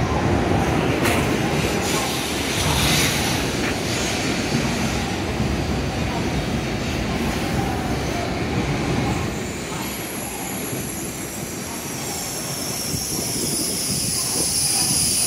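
N700S Shinkansen train rolling into the platform and slowing, its cars rumbling past, with a high whine that starts about two-thirds of the way in and falls steadily in pitch as the train brakes.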